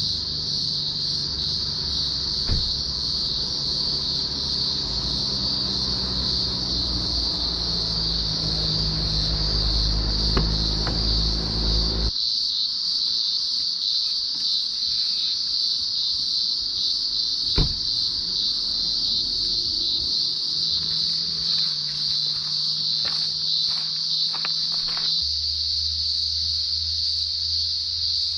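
Chorus of cicadas, a steady high-pitched shrill drone. There is a low rumble under it for the first twelve seconds or so, which cuts off suddenly, and a few sharp clicks.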